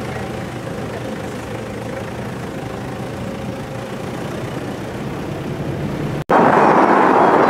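Steady engine and road noise of a vehicle driving on a dirt track. About six seconds in, the sound cuts to a louder rushing noise: wind on the microphone of a moving vehicle.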